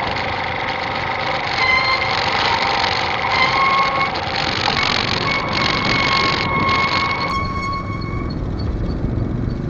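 Motorcycle on the move: wind rushing over the microphone with the engine running under it and a steady whine; the wind noise eases about seven seconds in.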